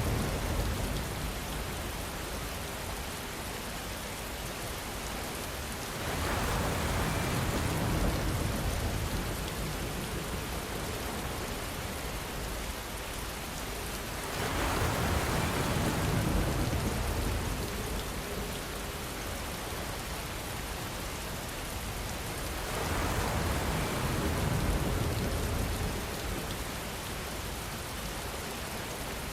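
Gentle rain falling as a steady hiss that swells louder three times, about every eight seconds, with a low rumble in each swell.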